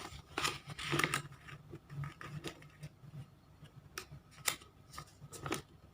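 Origami paper being folded and creased by hand: crisp paper crackles and sharp clicks, scattered irregularly, with the loudest few in the second half.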